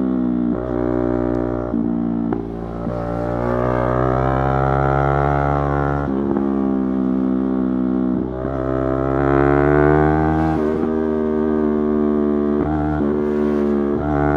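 Yamaha YZF-R3's parallel-twin engine under hard riding. The revs climb steadily, then drop sharply at several quick gearchanges, with a steady low rumble of wind underneath.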